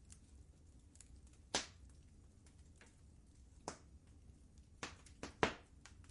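Wood fire crackling in a fireplace: irregular sharp pops and snaps, the loudest about one and a half seconds in and again near the end, over a faint low steady rumble.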